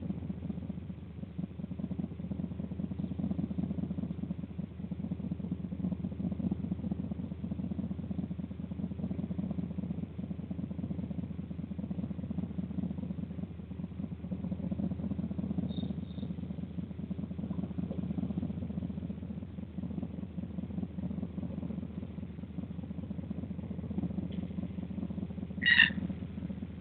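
Steady low rumble throughout, with faint brief chirps partway through and one loud, short bird call near the end.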